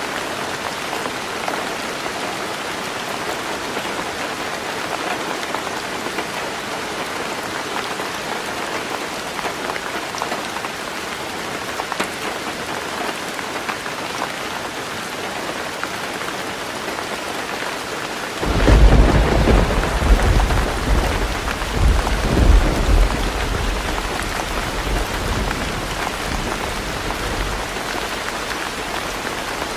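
Heavy rain pouring on a roof, a steady even hiss. About two thirds of the way through, a roll of thunder breaks in suddenly with a deep rumble that swells twice and dies away over several seconds.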